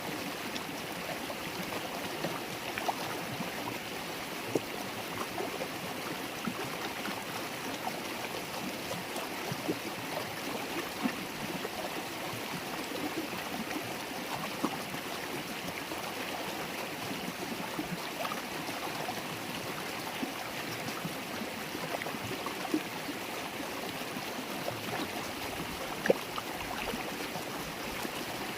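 River water babbling over stones: a steady rushing with many small splashes and plinks, and one sharper splash a few seconds before the end.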